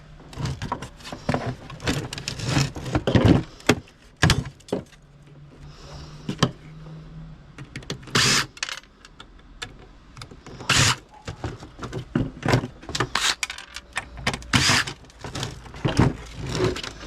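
Scrap metal parts being handled and dropped, giving irregular clanks, clinks and rattles.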